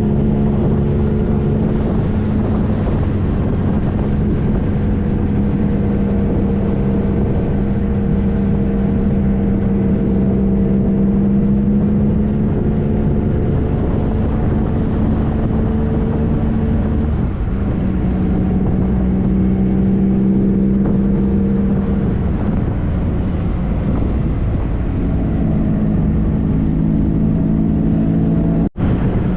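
2013 Triumph Trophy SE's 1215 cc three-cylinder engine running at a steady pitch under way, over a rush of wind and road noise. The engine note eases and shifts a couple of times, and the sound cuts out for an instant near the end.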